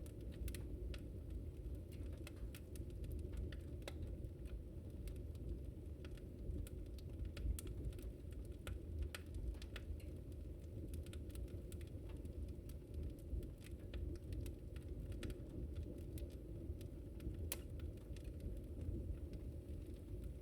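Wood fire crackling: many irregular sharp pops and snaps over a steady low rumble of the burning fire.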